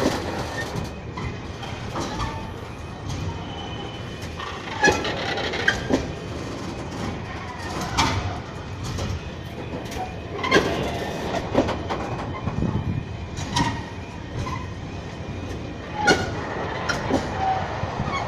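Train rolling slowly over a level crossing, its wheels knocking over the rail joints in single clacks spaced a second or two apart, over a low steady rumble.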